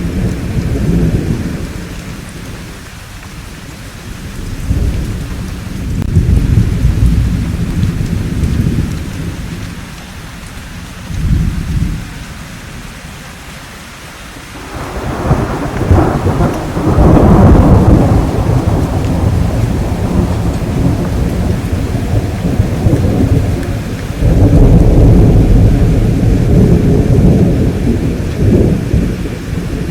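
Thunderstorm: rolling thunder swelling and fading in several long rumbles over steady rainfall. The loudest, sharpest peal comes about halfway through, and another long rumble near the end.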